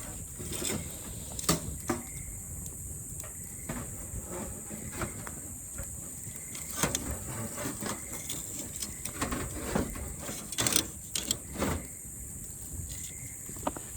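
Wood campfire crackling, with irregular sharp pops and clicks and scattered knocks of cooking gear being handled over the fire, above a steady high-pitched background.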